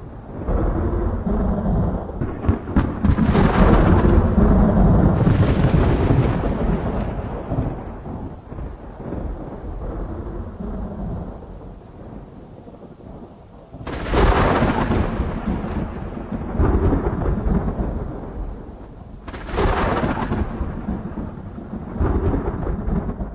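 Thunderstorm sound effect for an aquarium storm simulation: long rolling thunder rumbles, then two sudden loud thunderclaps in the second half that rumble away, and a shorter clap near the end.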